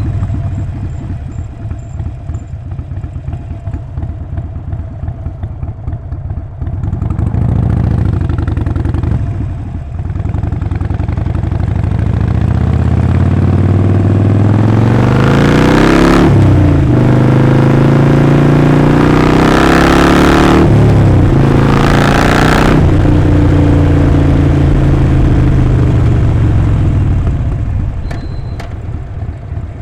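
Harley-Davidson Sportster 48's air-cooled 1200 cc V-twin loping at low revs, revving briefly, then accelerating through the gears: the pitch climbs and drops back at each of three shifts. Near the end the throttle rolls off and it settles back to a low, uneven lope.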